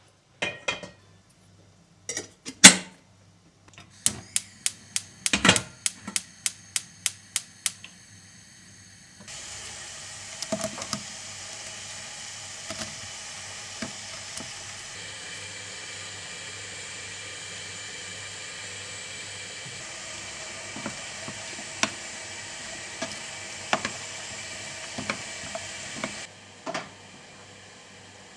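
Kitchen noises: a few knocks, then a quick run of evenly spaced clicks, about three a second. Then a steady hiss with occasional light clinks of a utensil, the hiss cutting off sharply near the end.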